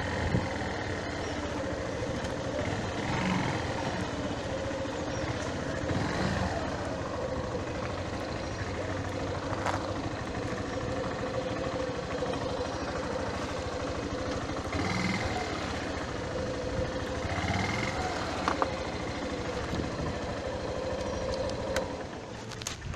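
Steady road traffic noise: vehicle engines running with a constant low hum, under a continuous wash of noise.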